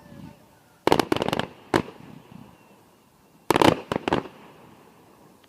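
Fireworks going off: a quick cluster of sharp bangs and cracks about a second in, and another cluster about three and a half seconds in.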